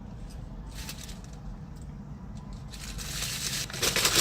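Paper fast-food packaging being crumpled and handled: irregular crinkling and crackling that grows louder and busier toward the end.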